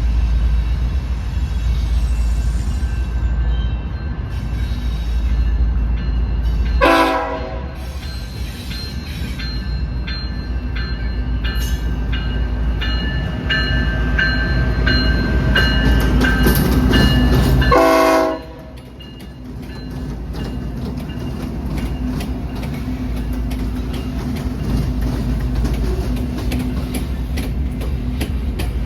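A pair of CPKC diesel locomotives passing with their train: a steady low engine and rail rumble, with a short horn blast about a quarter of the way in and another just past the middle.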